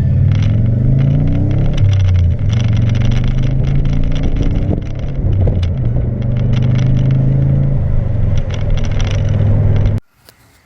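Subaru engine running through an exhaust whose muffler has blown apart, leaving it effectively straight-piped and loud. The pitch rises in the first two seconds as it accelerates, drops at a gear change, then holds a steady drone with small changes, and cuts off abruptly near the end.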